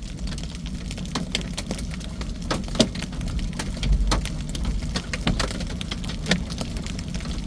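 Large hail, almost baseball size, striking a vehicle in an irregular patter of sharp knocks and cracks, some louder than others, over a steady low rumble.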